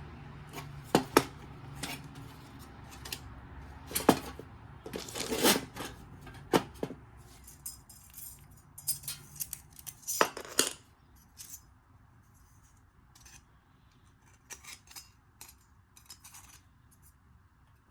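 Light metal clinking and scraping from metal camping gear being handled: a busy run of sharp clinks and knocks that thins out to a few scattered taps after about eleven seconds.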